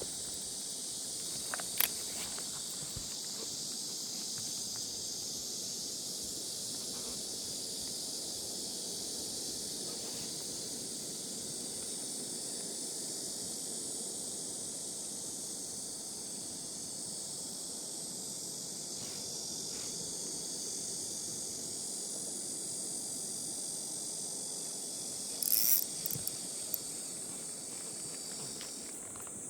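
Dense, steady, high-pitched chorus of insects. A few sharp clicks come about two seconds in, and a brief louder clatter comes near the end.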